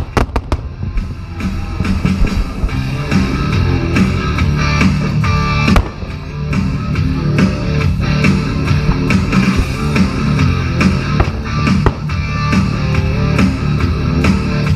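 Loud rock music with electric guitar and a drum kit playing.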